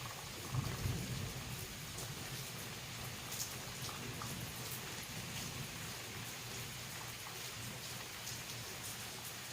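Steady rain falling, with individual drops ticking on a surface, and a brief low rumble about half a second in.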